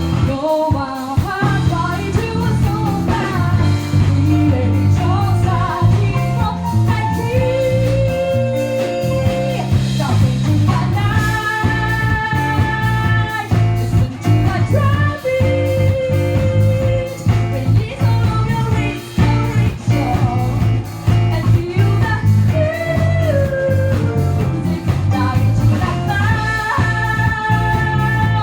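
A live rock band playing: a singer holding long notes over electric guitar, bass and drums.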